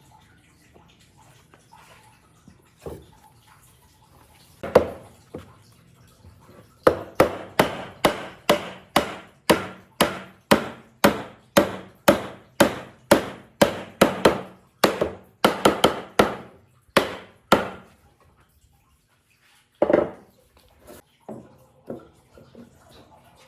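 Wood being struck over and over, a steady run of sharp blows about two a second for some ten seconds, with a few single knocks before and after.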